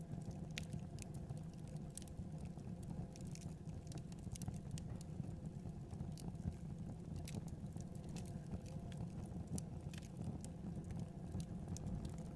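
Wood fire in a fireplace crackling, with frequent irregular sharp pops over a low, steady rumble of the flames.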